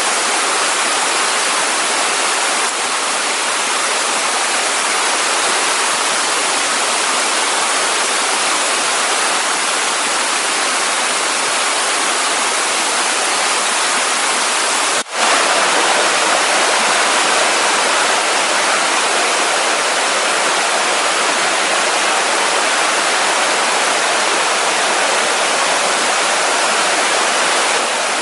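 Waterfall in a mountain gorge, water cascading over moss-covered rock in a loud, steady rush. It breaks off for an instant about halfway through and comes back slightly louder.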